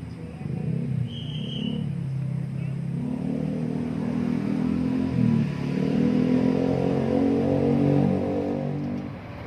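A motor vehicle engine running, rising a little in pitch and growing louder over several seconds as it accelerates, then dropping away near the end.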